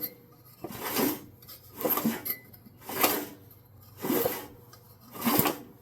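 8-horse Briggs & Stratton engine on a Wheel Horse 607 being pulled over by its recoil starter, six rasping pulls about a second apart, without catching. It is being cranked to check for spark after the breaker points were regapped.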